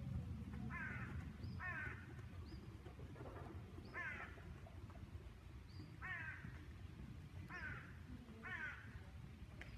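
A bird calling repeatedly, about six harsh, falling caws spaced one to two seconds apart, over a steady low rumble.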